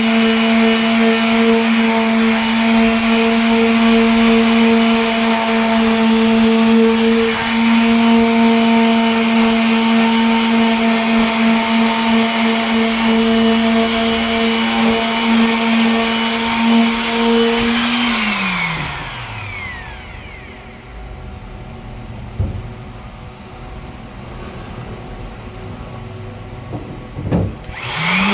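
Electric sander motor running at a steady pitch, then switched off about two-thirds of the way through and winding down with a falling whine. After several seconds of quiet with a couple of light knocks, it is switched on again and spins back up at the very end.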